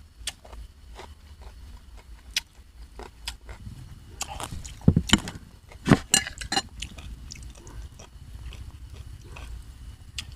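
Close-up eating sounds: biting and chewing spicy seafood papaya salad with rice noodles, with scattered crisp clicks and crunches, loudest around five to six seconds in.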